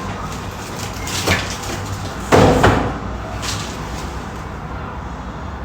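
Handling noises at a new washing machine: a knock about a second in, then a louder clunk and scrape a little before the middle, as something is opened or pulled out to get at the parts inside.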